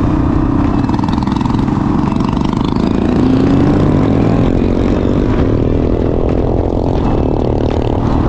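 Honda CRF450RL's single-cylinder four-stroke engine running through a Yoshimura exhaust while being ridden, its note rising and falling with the revs.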